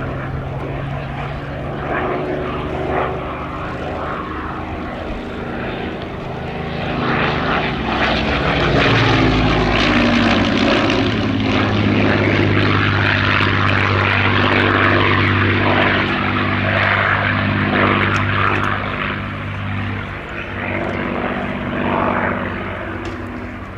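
Rolls-Royce Merlin V12 piston engine of a WWII fighter flying by: the engine note builds, drops in pitch as the aircraft passes about 9 seconds in, stays loud for several seconds, then fades away.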